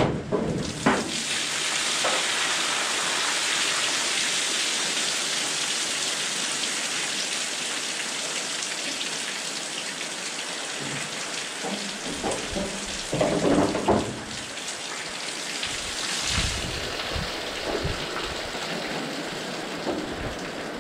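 Steady rain on a corrugated metal shed roof, with water dripping and streaming off the roof edge. A few dull knocks stand out about two-thirds of the way through.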